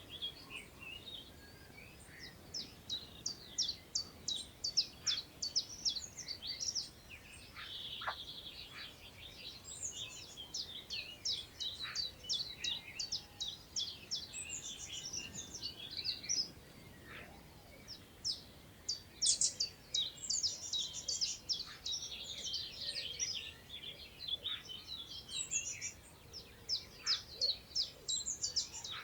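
Several wild birds singing in the British countryside, overlapping phrases of quick repeated high chirps and short trills that keep starting and stopping, over a faint steady hiss of wind through long grass.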